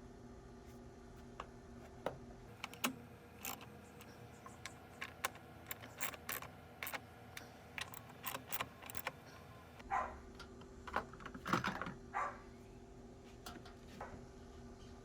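Irregular light clicks and taps of small hard objects, with a few louder knocks about ten to twelve seconds in.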